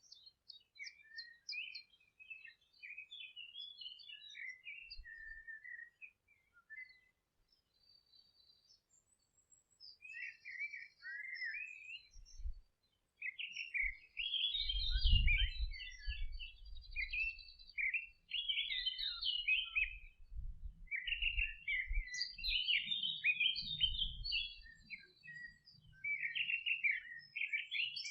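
Songbirds twittering in quick chirping phrases, pausing briefly a few seconds in and growing denser after that. A low rumble sits underneath through the second half.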